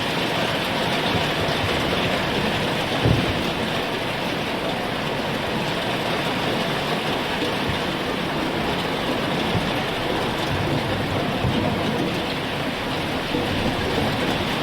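Heavy rain falling steadily, an even hiss without let-up, with one brief low thump about three seconds in.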